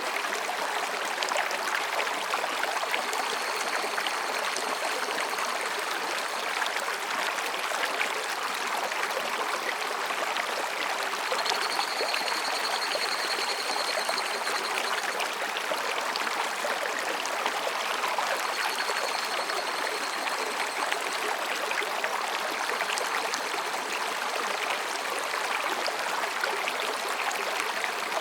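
Mountain stream rushing and babbling over rocks, steady throughout. Faint high, trilling calls of higurashi cicadas come in a few times, each lasting a few seconds.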